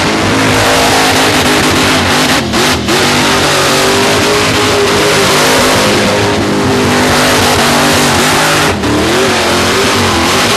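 Supercharged 540 big-block V8 with a 14/71 blower and methanol injection, revving hard through a burnout with the rear tyres spinning. The revs dip briefly three times, twice in quick succession early on and once near the end.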